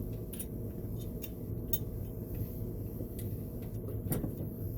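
Scattered light clicks and taps of metal parts and tools being handled while a radial arm saw motor is reassembled, over a steady low background hum.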